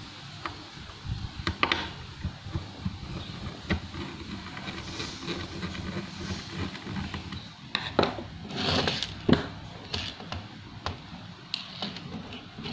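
Irregular clicks and knocks of handling at an uneven pace, the loudest cluster about eight to nine seconds in, over a steady faint hiss.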